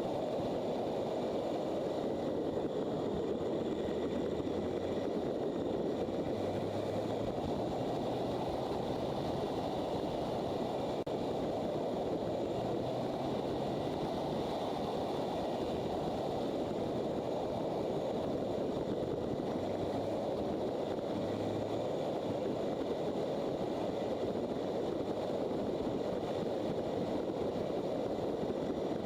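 Motorcycle riding at speed: a steady rush of wind over the microphone, with the engine running underneath.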